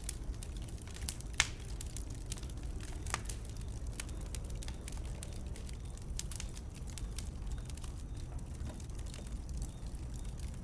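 Bonfire of burning wood crackling, with irregular sharp pops and snaps over a steady low rumble; the loudest pop comes about a second and a half in.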